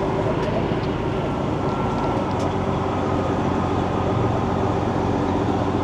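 Semi truck's diesel engine running steadily at low speed, heard from inside the cab, as the truck is driven slowly through a tight turn.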